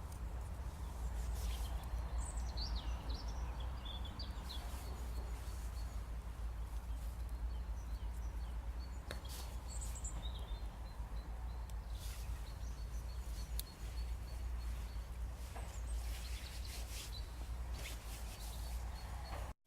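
Newly lit wood campfire burning, with scattered crackles over a steady low rumble. A few birds chirp in the background, about two to four seconds in and again around ten seconds.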